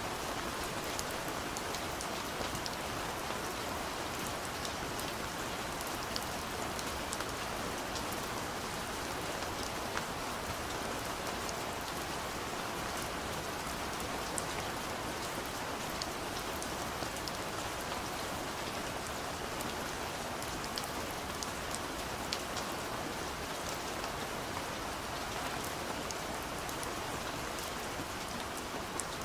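Steady soft rain falling on a window pane, an even hiss with many small scattered drop ticks.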